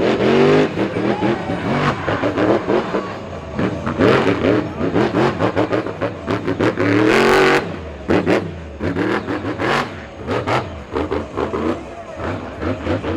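Monster truck engine revving hard again and again, its pitch climbing and dropping with each stab of the throttle, with a brief loud rush of noise a little past the middle.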